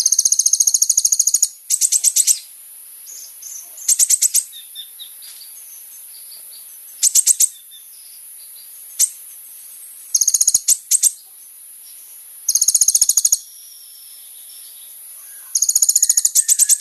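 Kolibri ninja sunbird singing: short bursts of very fast, high-pitched trilled notes, repeated every one to three seconds over a steady high hiss.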